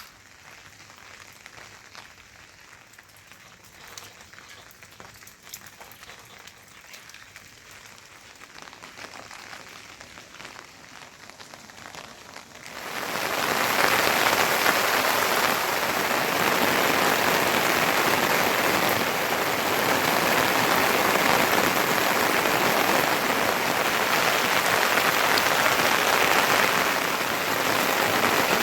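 Light rain with scattered drips, then about halfway through a sudden jump to heavy rain: a loud, dense, steady hiss.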